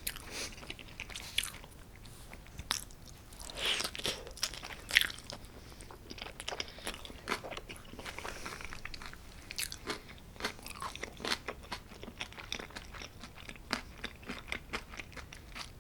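A person biting and chewing homemade cheesy pizza, with irregular crunches and many short clicks.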